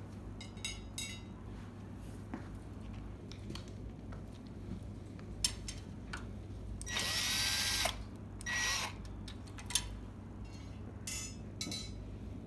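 A power drill runs for about a second, its pitch rising as it spins up, then runs again briefly. Scattered clicks and knocks of parts being handled come before and after.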